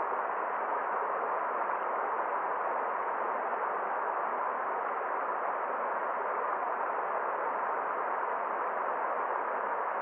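Forest stream flowing: a steady, unchanging rush of water.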